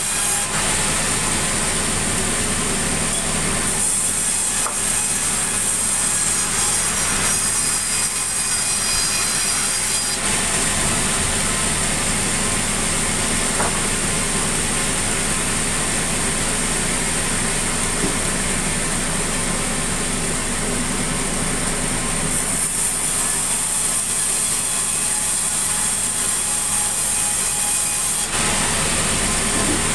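Sawmill saw cutting sengon timber, with the engine that drives it running steadily underneath. The cutting sound shifts several times as the wood is fed through.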